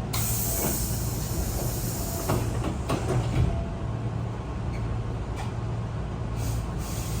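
Steady low hum inside a Hankyu commuter train car, with a few short knocks and rattles partway through.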